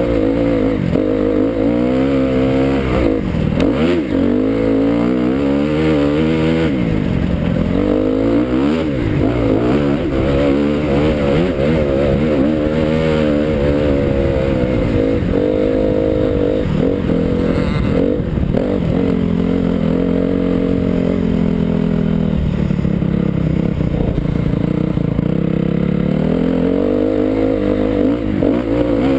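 Motocross bike engine revving up and shutting off again and again, its pitch climbing and falling every second or two, then held at a steadier, lower pitch for several seconds past the middle before climbing again near the end.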